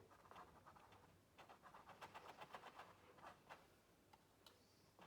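Faint, quick ticks and light scratches of a paintbrush dabbing short strokes onto paper, about five or six a second for a couple of seconds from about a second and a half in.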